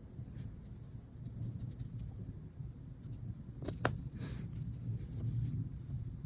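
Light scratching and handling sounds of small bench work on accordion reed plates and their leather valves, with one sharp click about four seconds in, over a steady low rumble.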